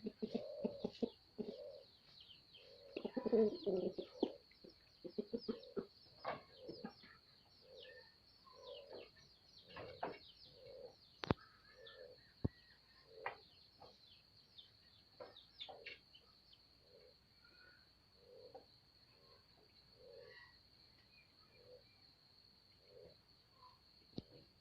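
Dove cooing: a long run of short, low coos, roughly one a second, with scattered faint sharp chirps in between.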